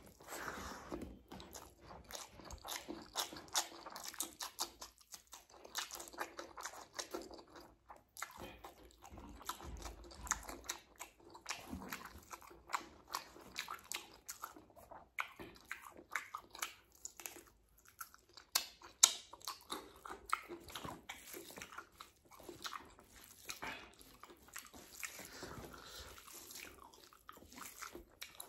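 Close-up chewing of a mouthful of rice and egg curry eaten by hand: continuous irregular wet smacks, clicks and crunches of open-mouth chewing.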